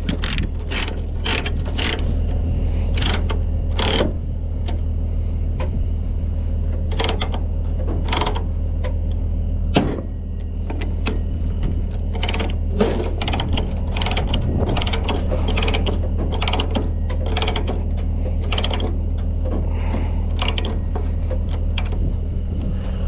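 Ratchet chain binder being cranked on a trailer's tie-down chain, its pawl clicking in uneven runs of sharp clicks. A truck engine idles steadily underneath.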